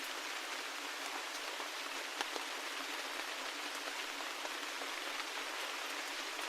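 Steady rain: an even hiss of rainfall with individual drops ticking through it, and one sharper drop about two seconds in.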